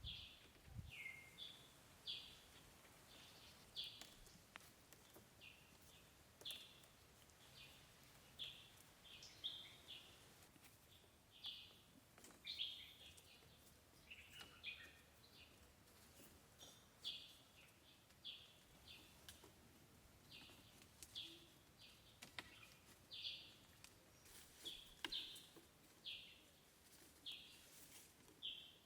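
Faint bird chirping: short high chirps repeating about once a second over a low background hiss.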